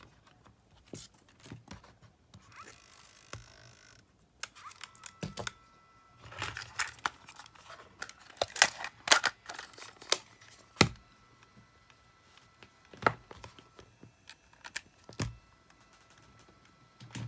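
Sharp plastic clicks and knocks from handling a Sony WM-600 cassette Walkman as its battery cover is snapped shut and the player is worked, the clicks coming thickest and loudest a little past the middle.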